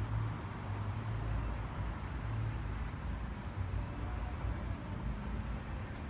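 Boeing 787-9 Dreamliner's Rolls-Royce Trent 1000 jet engines, a steady low rumble.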